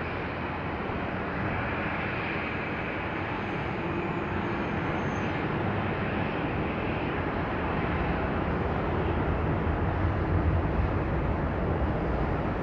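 Jet airliner engines, a steady rushing noise that grows slowly louder as the plane comes in to land, with a low rumble building toward the end and a faint high whine in the first half.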